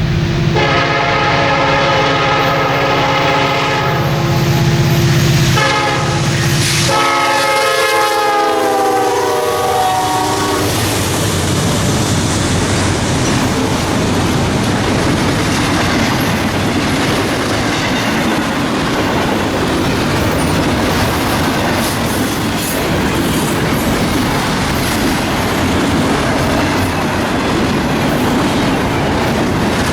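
Freight locomotive's horn sounding a chord of several notes, which drops in pitch about seven seconds in as the locomotive passes. The horn then stops, and the train's cars roll by with a steady clatter of wheels over the rail joints.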